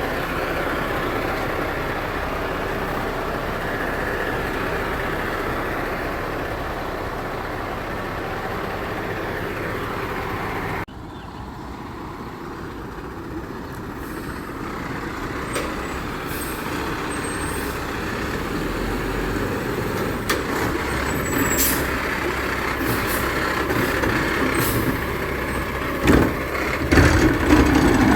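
Garbage truck running, its engine noise dropping abruptly partway through and then building again. Clanks and knocks follow, with a burst of loud bangs near the end.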